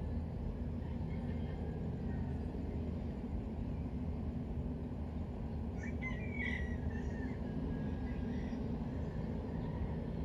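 Steady low rumble of distant city traffic, with a brief high chirping sound about six seconds in.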